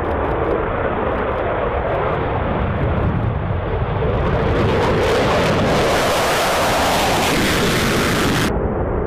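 Fighter jet engine noise, a loud steady rush that grows brighter and more hissing from about four seconds in, then turns abruptly duller near the end.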